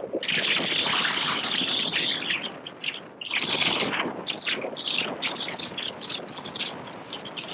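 Birds chirping in a dense, overlapping chorus of many short, high-pitched calls, with a louder burst about halfway through.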